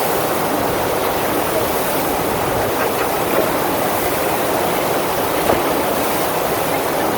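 Steady rush of water running over a FlowRider sheet-wave surf machine.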